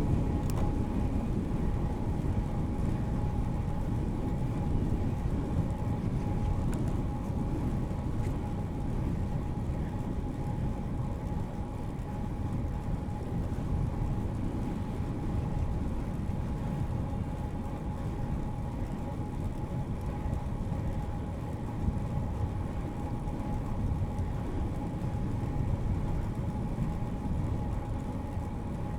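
Road bicycle riding along a paved path: steady wind and tyre rumble on the chest-mounted mic, with a faint steady whine above it.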